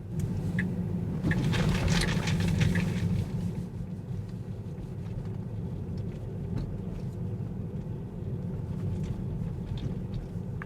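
Road and tyre noise inside the cabin of a moving 2019 Tesla Model 3, a steady low rumble with no engine sound. It is louder with a few scattered knocks for the first three seconds or so, then settles lower and even.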